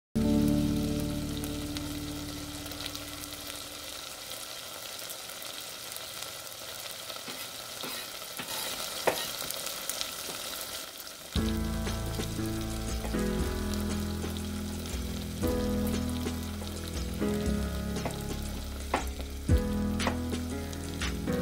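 Pork pieces sizzling as they sauté in a pot, with a few sharp clicks. Light background music comes in about halfway through.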